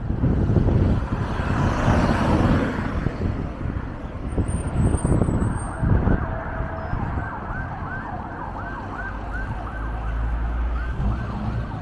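Emergency vehicle siren in a fast yelp, rising and falling about two to three times a second, starting about halfway in. Before it, wind rumbles on the microphone over passing street traffic.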